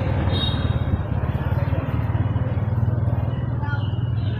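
Wind on the microphone, a steady low rumble, with a hiss of wind through trees above it.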